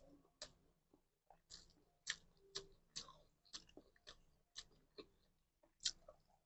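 Faint run of light clicks and taps, about two a second, irregular in strength.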